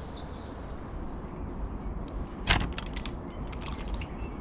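A small songbird sings a fast run of quick repeated high notes. Then, after a break, comes a single loud, sharp crack, followed by a scatter of faint clicks and ticks.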